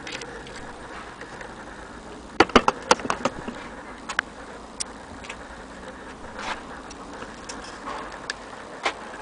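Irregular sharp clicks from an antique Junghans mantel clock: a quick run of clicks about two and a half seconds in, then scattered single clicks, over a steady background hiss.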